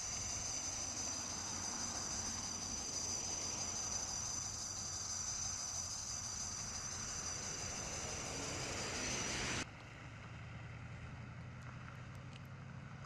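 Vehicle noise at a roadside with a steady high-pitched tone over it. The sound cuts off suddenly about ten seconds in, leaving a quieter low hum.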